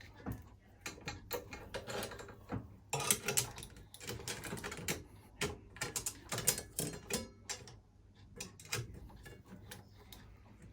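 Irregular metallic clicks and knocks from hand work on a bicycle's parts and tools, coming in quick clusters and busiest in the middle.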